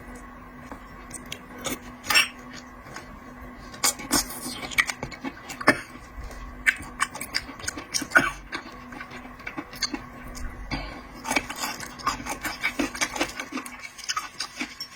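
Seafood being handled and eaten: irregular sharp clicks and crackles of shells and utensils against dishes, over a faint steady hum.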